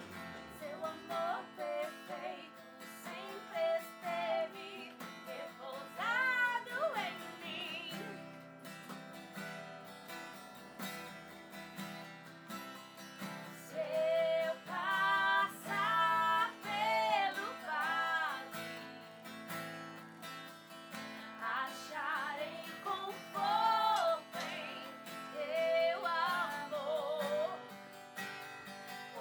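Woman singing a worship song in phrases with vibrato, accompanied by a strummed acoustic guitar.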